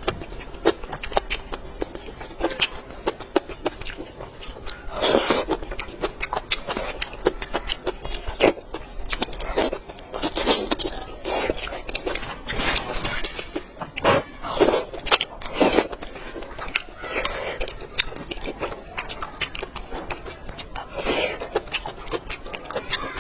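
Close-miked eating: chewing and biting, with many short sharp clicks and a few louder wet bursts of a second or so.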